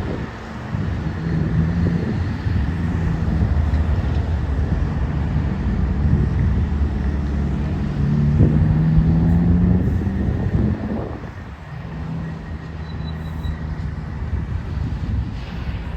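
Freight train rolling past a railroad crossing: a steady rumble with a low engine hum, louder about eight to ten seconds in, then dropping off noticeably about eleven seconds in.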